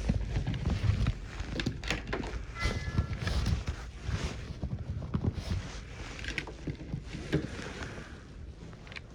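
Irregular knocks and thumps over a rustle, with a brief high beep about three seconds in.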